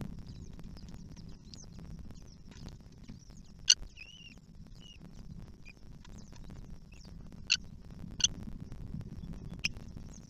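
Kestrel nestlings squeaking with many faint, high, short chirps, broken by four loud, sharp, short calls, over a low rumble.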